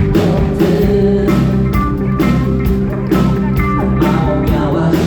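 Live rock band playing an instrumental passage of a song, with guitars, bass and keyboard chords over a steady drum beat.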